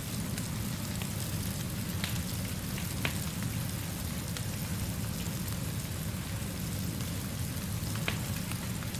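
Steady rainfall with a low rumble underneath, broken by a few isolated sharp pops, three of them, about two, three and eight seconds in.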